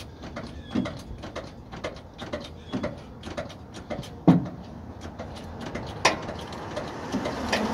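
Irregular metallic clicks and knocks of a jack and tools being handled and set under a trailer, with a louder knock about four seconds in and another about six seconds in.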